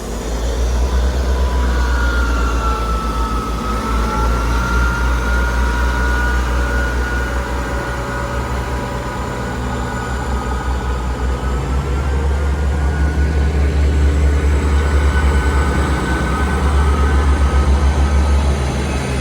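Class 158 diesel multiple unit pulling out of the station, its diesel engines rumbling under a thin high whine that dips and rises slightly, getting louder toward the end.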